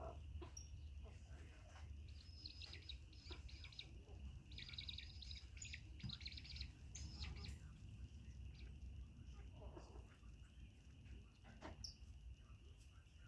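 Faint, rapid high bird chirps in two clusters, over a steady high insect drone like crickets and a low background hum.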